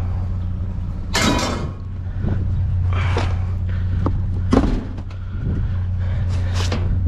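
Rustling and scraping as items in a dumpster are handled and moved, in several short bursts, the loudest about a second in, over a steady low hum.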